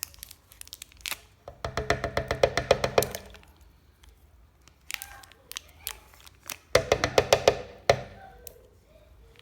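A utensil tapped rapidly against a container, in two quick bursts of ringing knocks about ten a second, as cream cheese is knocked off it into the blender jar.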